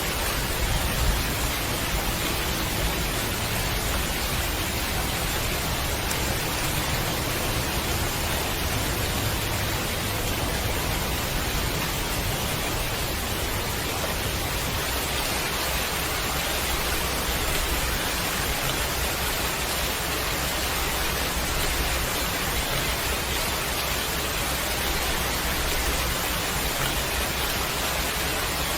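Steady heavy rain, an even dense hiss with a low rumble underneath.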